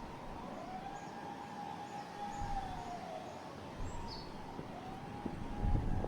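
Emergency vehicle siren wailing: the tone rises, holds, falls, then rises again about four and a half seconds in, over a fainter steady siren tone. Gusty wind rumbles on the microphone, strongest near the end, and a short bird chirp comes about four seconds in.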